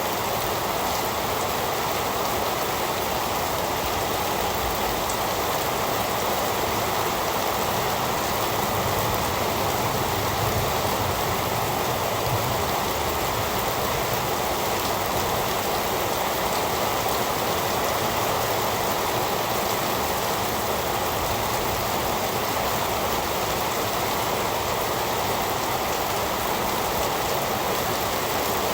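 Heavy rain falling steadily, an even unbroken rush with no breaks or swells.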